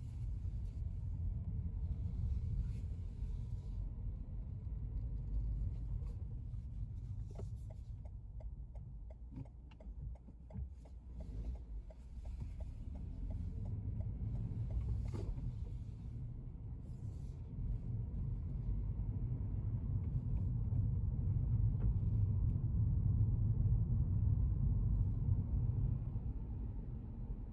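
Car driving, heard from inside the cabin: a steady low rumble of road and engine noise. It dips about ten seconds in and grows louder toward the end.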